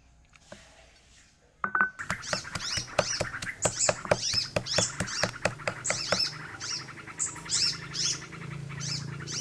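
Birds chirping busily, starting suddenly about a second and a half in, over a run of quick knocks.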